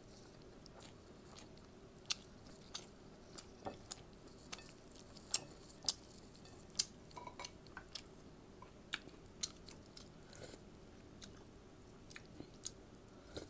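Close-up chewing and wet mouth sounds of someone eating rice and sardines with their hands: a scatter of short, sharp smacks and clicks at irregular intervals.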